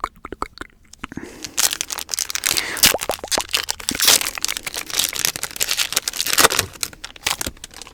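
Crinkly packaging crackling and crinkling close to the microphone. It starts with a few scattered clicks, turns into a dense crackle about a second in, and eases off near the end.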